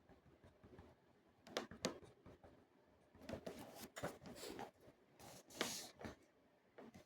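Faint scratching and rustling handling noises in a small room, with two sharp clicks about a second and a half in and a louder scrape near the end.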